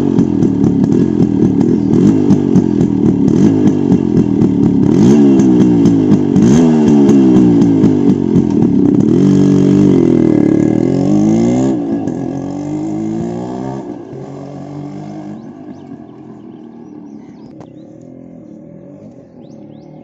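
Yamaha RX-135's two-stroke single-cylinder engine running loud, its pitch climbing and dropping again and again as the revs rise and fall. About twelve seconds in it grows quieter and fades away.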